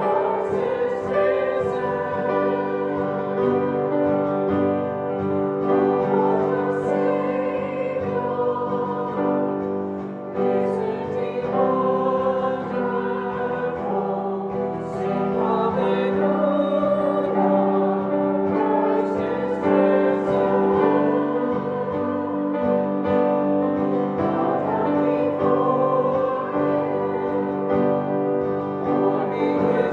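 A choir singing church music with instrumental accompaniment, in held, steady chords without a break.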